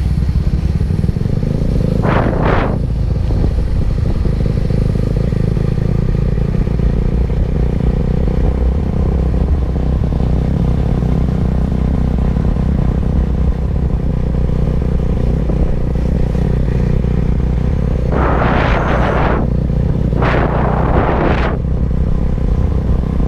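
Benelli TNT25's single-cylinder engine running steadily while the motorcycle is ridden along, with wind noise. Brief louder rushes of noise come about two seconds in and twice near the end.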